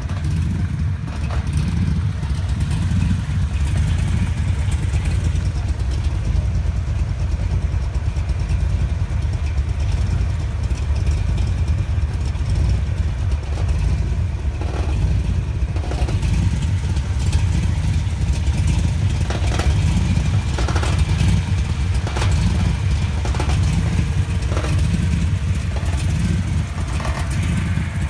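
1966 Shelby Cobra's V8 engine running steadily, a deep even rumble with no revving. A few faint clicks can be heard in the second half.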